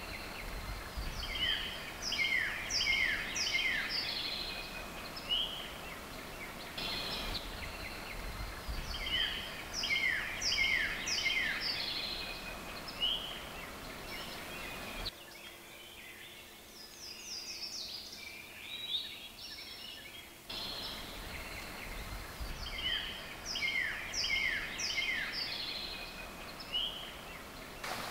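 A wild songbird singing: repeated phrases of quick, downward-sliding chirps, four times, one phrase fainter than the others.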